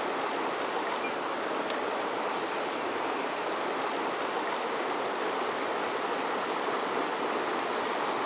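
Mountain stream water rushing steadily, with a single short click a little under two seconds in.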